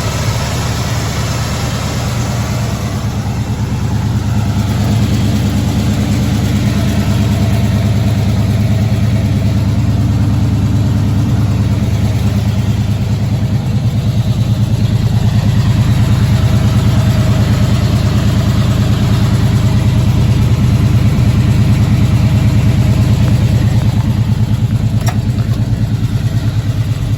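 1977 Chevrolet K5 Blazer engine idling steadily while it warms up after a cold start, with an even low exhaust pulse that grows a little louder twice.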